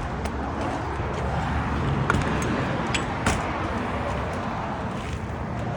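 Steady outdoor background noise: a low rumble and hiss, with a few faint clicks.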